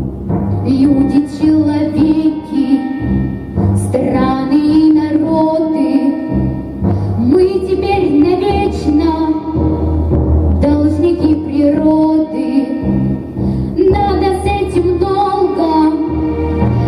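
A young girl singing a melody over an orchestral backing track, in phrases with short breaks between them.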